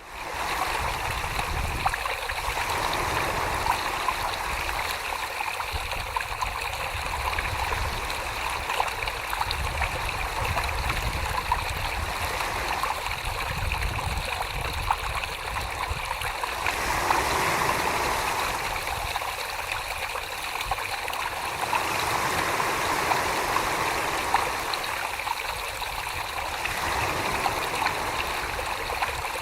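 Wet clay being thrown on a spinning potter's wheel: hands squelching and sloshing through the slip, with small wet clicks and a low rumble underneath, the sound shifting every few seconds.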